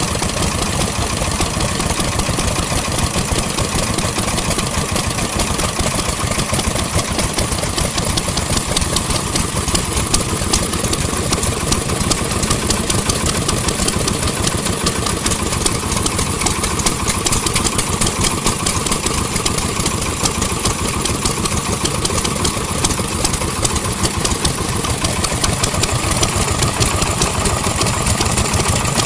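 Vintage engine running steadily, with no change in speed.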